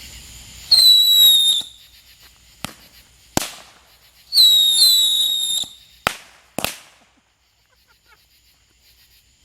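Three whistling fireworks lit together from joined wicks. One shrill whistle sounds, sliding slightly down in pitch, and then two more whistle at once a few seconds later. Sharp bangs come between and after the whistles.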